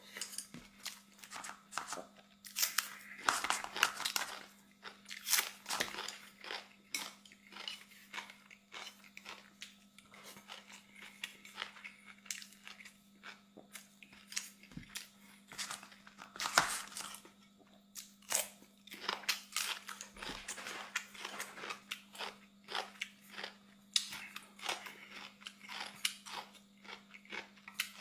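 A person eating close to the microphone: steady wet chewing and crunching, with louder crunchy bites every few seconds. A faint steady hum runs underneath.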